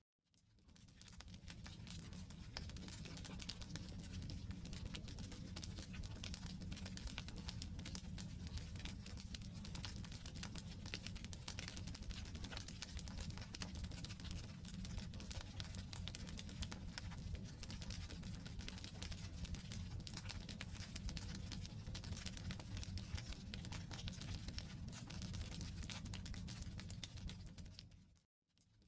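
Wood campfire burning: logs crackling and popping steadily over the low rumble of the flames. The sound fades in at the start and briefly fades out to silence near the end before returning.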